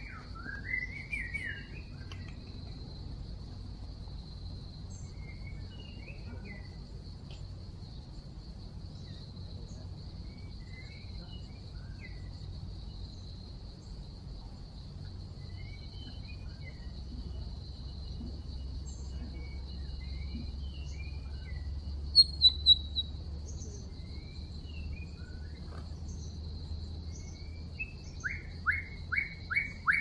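Birds calling in scattered short chirps and whistled notes over a steady high-pitched drone, with a louder burst of chirps about two-thirds of the way through and a quick run of repeated rising notes near the end.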